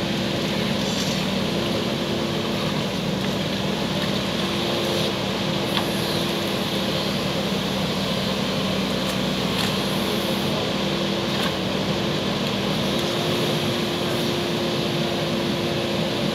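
JCB backhoe loader's diesel engine running steadily at a constant speed, with a few faint clicks over it.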